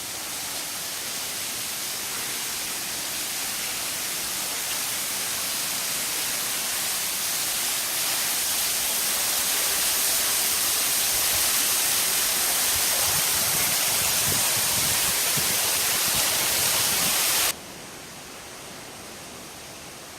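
Waterfall's falling water making a steady, full hiss from close inside the falls, growing slowly louder, with some low rumbling toward the middle. About three-quarters of the way through it drops abruptly to a much quieter hiss.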